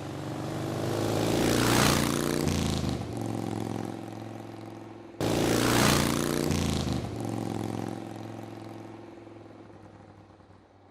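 Motorcycle engine revving up and dying away, twice; the second rev starts abruptly about five seconds in and fades out by the end.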